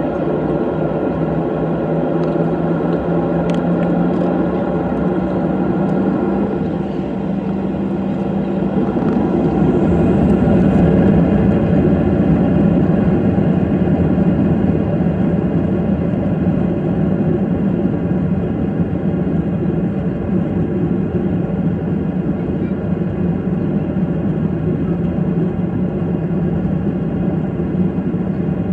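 Airplane engines running with a steady drone and several held tones, growing a little louder about ten seconds in and then holding.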